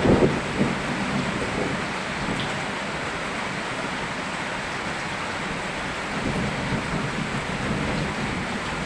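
Steady rain hissing, with a rumble of thunder that dies away in the first second or so and a softer low rumble about six seconds in.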